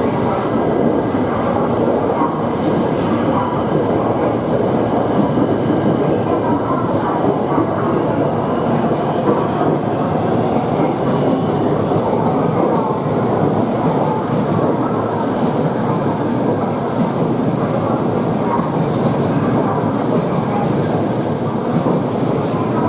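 A Shinkansen train rolling at low speed, a steady dense rumble of wheels and running gear with clickety-clack from the rails. A faint high whine drifts upward in the second half.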